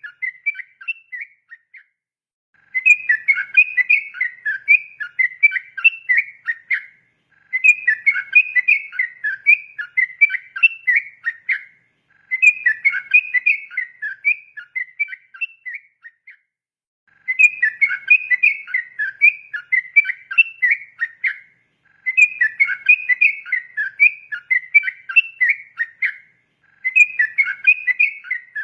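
Yellow-vented bulbul (trucukan) singing its fast, rolling 'ropel' song: bursts of quick bubbly whistled notes about four seconds long, repeated six times with brief pauses between them.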